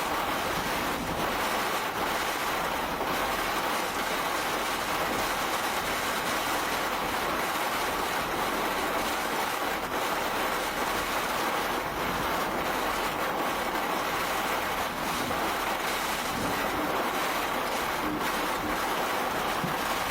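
Tornado winds and heavy rain lashing a police squad car, picked up by its dashcam microphone as a steady, unbroken rushing noise.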